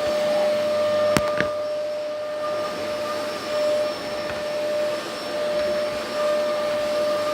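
LG VK69401N vacuum cleaner running steadily, its motor giving a constant whine over the rushing air, with two sharp clicks about a second in.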